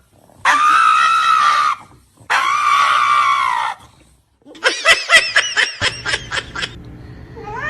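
Two long, high-pitched screams, each about a second and a half, followed by a quick run of short cries lasting about two seconds.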